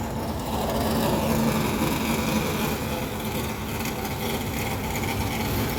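A car engine running steadily, a low rumble with a constant hum under it.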